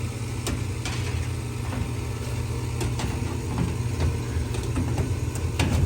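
Steady low motor hum with several light clicks and taps from handling tools, one louder click near the end.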